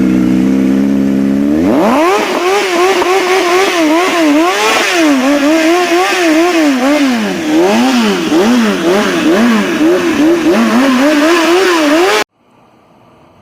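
Motorcycle engine through an aftermarket sport exhaust, held steady for a moment, then revved hard and blipped up and down over and over in quick throttle stabs. The sound cuts off abruptly near the end.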